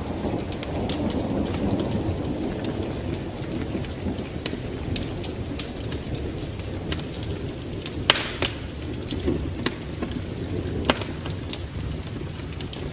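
Wood fire crackling in a fireplace: scattered sharp pops and snaps over a steady low rumble, with one louder crack about eight seconds in.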